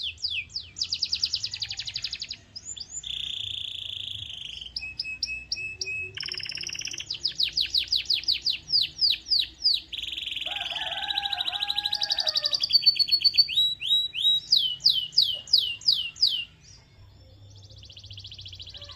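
Canary singing: fast runs of repeated sweeping notes alternating with buzzy rolls and trills. The song drops off briefly near the end.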